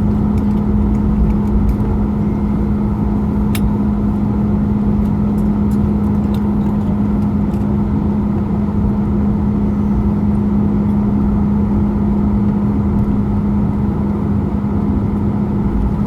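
Jet airliner cabin noise after landing: a steady low rumble with a constant hum, and a few faint clicks in the first few seconds.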